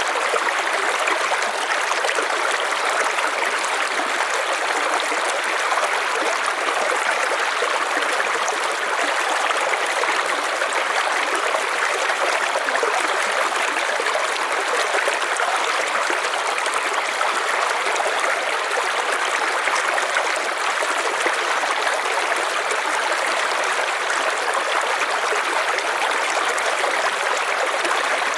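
River water flowing and splashing in a steady rush with no let-up.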